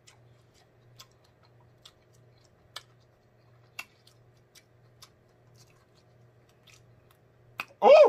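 Close-miked chewing of deep-fried king crab knuckle meat: scattered sharp mouth clicks and smacks, about one or two a second, over a faint steady hum. Near the end comes a short, loud hummed "mm" of approval that rises and falls in pitch.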